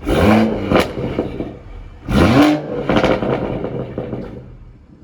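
BMW M140i's tuned 3.0-litre turbocharged straight-six revved twice through a Scorpion exhaust in sport mode, the pitch rising then falling with each blip. Each blip is followed by a sharp pop on the overrun before the engine settles back toward idle.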